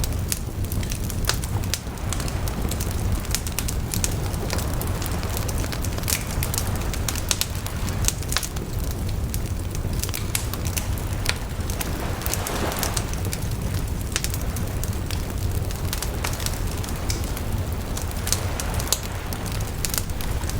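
Wood bonfire burning, crackling with frequent sharp pops over a steady low rumble.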